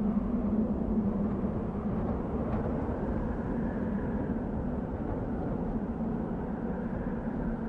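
Desert wind blowing steadily: a low rushing noise that swells and eases a little.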